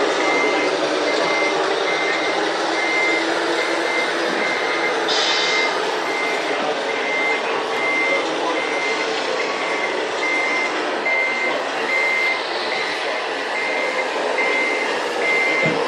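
Reversing beeper of a radio-controlled model truck, a steady high beep repeating a little over once a second, over a constant background hum.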